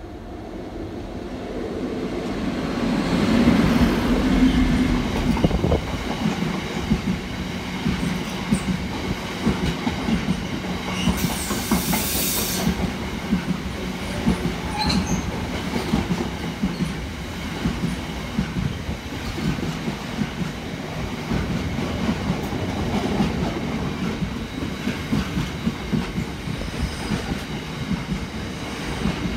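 Freight train of hopper wagons passing, hauled by a Class 60 diesel locomotive. The locomotive's engine grows louder as it approaches and goes by in the first few seconds. Then the wagons' wheels clatter rhythmically on the rails, with a brief high hiss about eleven seconds in.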